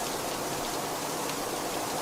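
Steady heavy rain falling, an even dense hiss with fine drop patter and no breaks.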